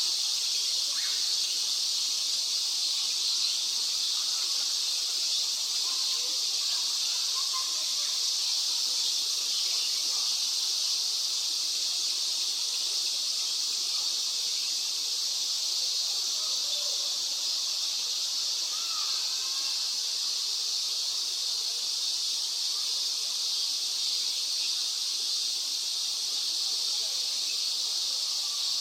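Steady, unchanging high-pitched hiss of outdoor background sound, with no distinct calls standing out.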